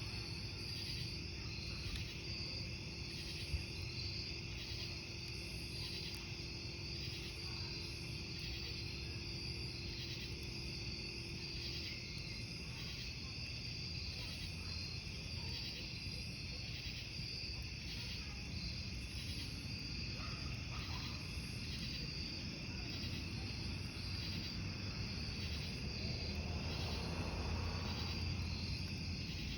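Crickets chirping in a steady, even rhythm over a wood campfire burning, with a single sharp pop from the fire about three and a half seconds in.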